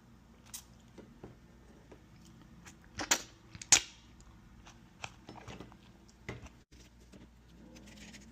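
Scattered small clicks and taps from handling and eating a cut horned kiwano, with two louder clicks about three seconds in.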